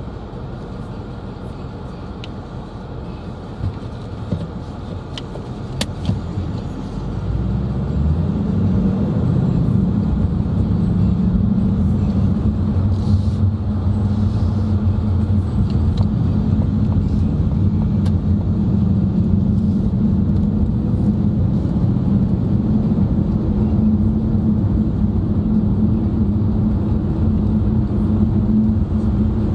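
Engine and road noise inside a moving car's cabin. About seven seconds in the engine pitch rises and the noise grows louder as the car speeds up, then holds steady at cruising speed; a few light clicks come before it speeds up.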